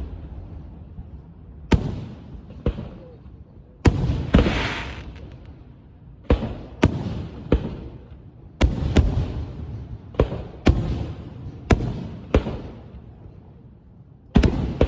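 Fireworks bursting: about a dozen sharp bangs at uneven intervals, each trailing off in a rumbling echo, with a longer crackling tail after the burst about four seconds in.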